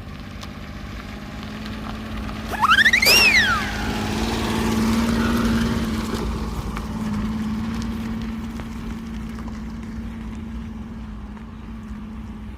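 Engine of a homemade mini tractor built from a car, running with a steady hum and swelling a little in the middle. About three seconds in, a loud pitched whistle-like call rises and then falls over about a second.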